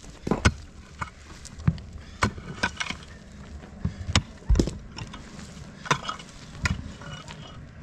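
A run of sharp knocks or blows, roughly two a second and unevenly spaced, like repeated work strokes with a tool.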